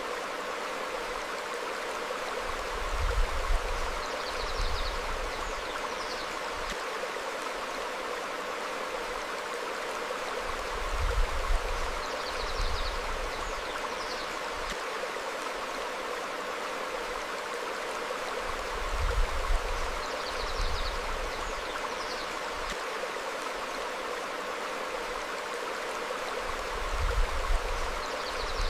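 A stream flowing over rocks, a steady rushing of water. Faint, short, high bird chirps and low rumbling swells come back together about every eight seconds, the swells being the loudest moments.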